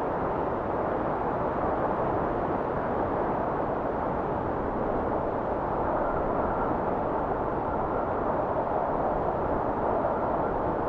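Blizzard wind blowing steadily, a low even rushing with little hiss on top; a faint higher whistle comes and goes in the second half.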